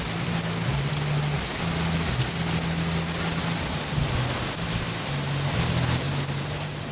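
Heavy rain pouring down steadily in a thunderstorm, with low bass notes of added background music underneath.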